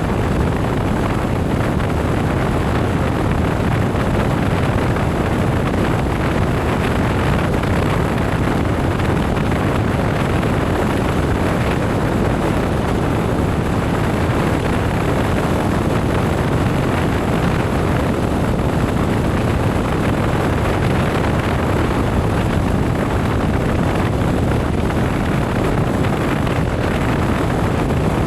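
Steady wind rush over the microphone with motorcycle engine and road noise underneath, unbroken throughout while riding.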